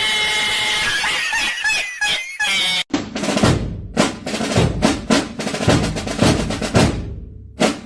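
About three seconds of dense music-like sound that cuts off suddenly, followed by a run of loud, uneven drum hits with heavy bass that trail off near the end.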